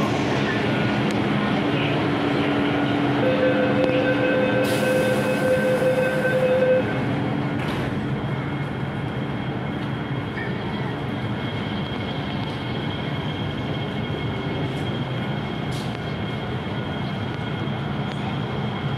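MTR Kwun Tong Line M-Train metro sounds at the terminus platform: steady running noise, with a set of steady tones from about three seconds in. About five seconds in a hiss joins them, and both cut off together near seven seconds. A quieter, steady hum follows.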